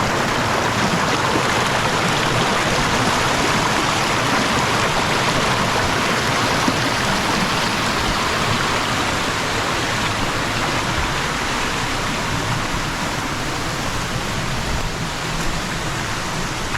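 Steady rush of stream water flowing over rocks, an even, unbroken noise.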